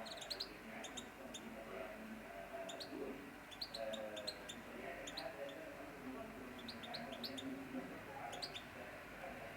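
Canaries giving many short, scattered high chirps.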